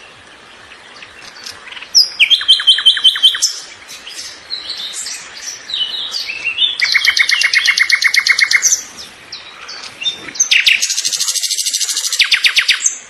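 A songbird singing: three loud phrases of rapid trills of repeated notes, starting about 2, 7 and 10.5 seconds in, with softer varied twittering between them.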